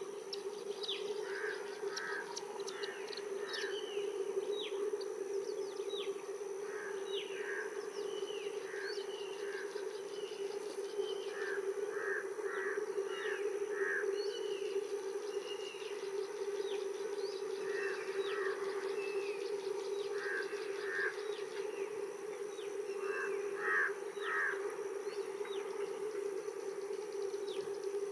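Birds chirping and calling repeatedly in short, quick notes over a steady drone.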